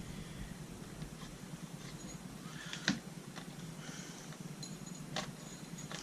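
Light clicks and taps of plastic RC car parts being handled as a wheel is fitted onto the rear axle, with two sharper knocks, one about halfway through and one near the end.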